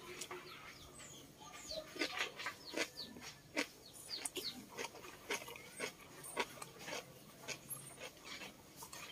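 Close-up eating sounds: crisp lettuce leaf being bitten and chewed with the mouth open, giving an uneven string of short crunches and wet lip smacks.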